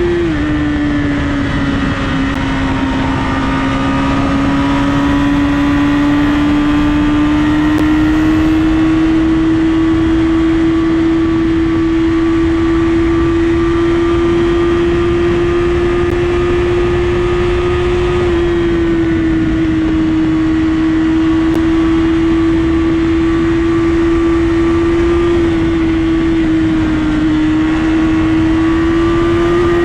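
Honda CBR1000RR inline-four engine cruising under steady throttle at high revs, over a constant rush of wind. Its pitch drops just after the start, creeps back up, and eases off slightly again about 18 seconds in.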